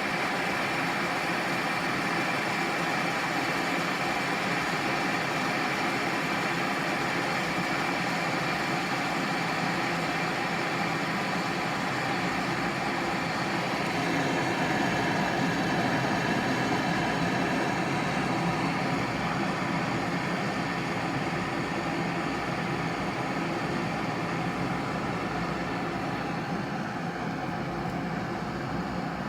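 Glass electric kettle heating water: a steady rushing noise that grows a little louder about halfway through.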